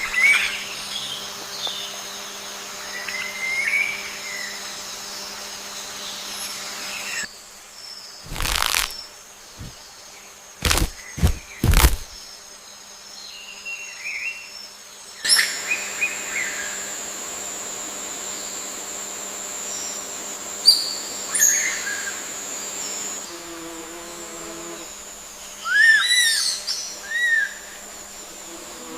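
Rainforest ambience: a steady high-pitched insect drone with scattered short bird chirps and calls. The background changes abruptly a few times, and four sharp thumps come close together near the middle.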